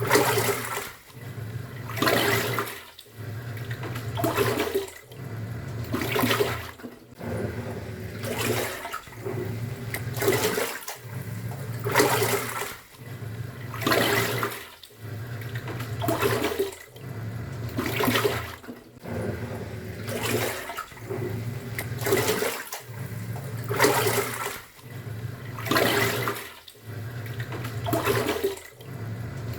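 Top-loading pulsator washing machine in its wash cycle: the motor hums, stops briefly and reverses about every two seconds, churning the water and laundry in rhythmic swishing surges.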